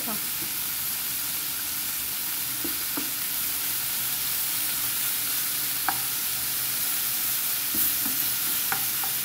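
Beef liver frying in oil in a nonstick skillet with a steady sizzle, stirred with a plastic spoon, with a few light knocks.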